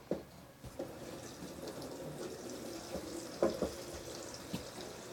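Water running from a tap into a bowl, a steady rush that comes up about a second in, with a few light knocks along the way.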